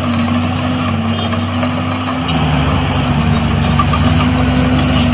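Heavy diesel engine of earthmoving machinery running steadily. About two seconds in, its note shifts lower and deeper.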